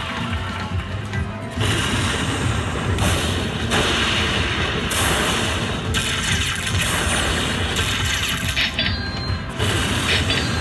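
Video slot machine electronic sound effects and jingles over casino background noise. Bursts of spin and win sounds start and stop about every second or two, with a few sharp clinks near the end.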